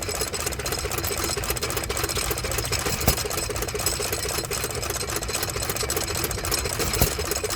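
Small antique stationary gas engines running, a steady fast clatter of ticks with a couple of sharper clicks.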